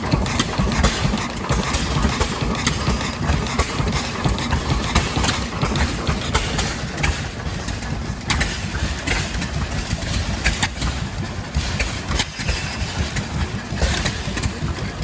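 Antique engines running steadily at idle.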